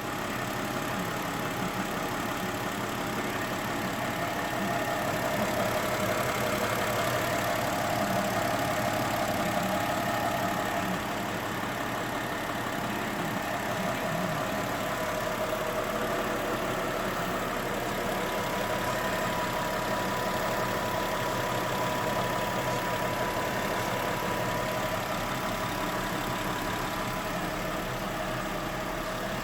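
Mercedes-Benz ML350 (W163) 3.7-litre V6 engine idling steadily, a little quieter from about eleven seconds in.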